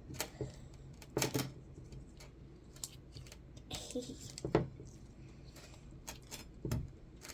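Hands kneading and flipping glitter-filled slime, making irregular short sticky clicks and pops, about seven in a few seconds.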